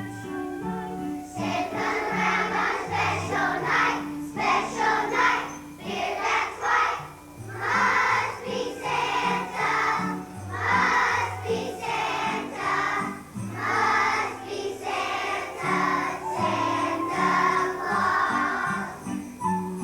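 A group of young children singing together as a choir over an instrumental accompaniment with a steady bass line; the voices come in about a second in after a short instrumental lead-in.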